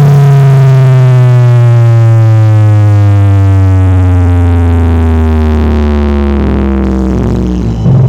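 Simbol Perkasa Audio's carnival sound system (sound horeg) playing one long, loud synth bass tone that slides slowly downward in pitch for about eight seconds, then cuts off suddenly near the end.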